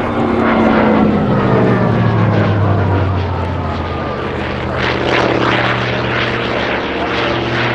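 Hawker Fury Mk I piston-engine fighter flying past, its engine note falling in pitch as it goes by; the engine and propeller noise swells again about five seconds in.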